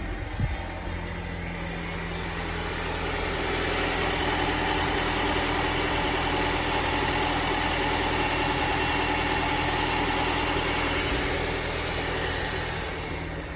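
Honda Prelude SiR engine idling steadily. A rushing layer grows louder from about three seconds in and eases back near the end, with a couple of light clicks just after the start.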